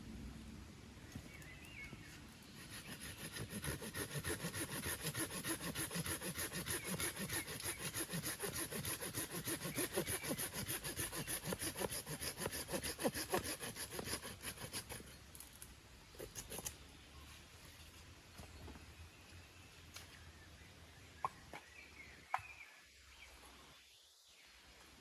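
A hand saw cutting through wood with quick, even back-and-forth strokes. It stops about fifteen seconds in and is followed by a few light knocks.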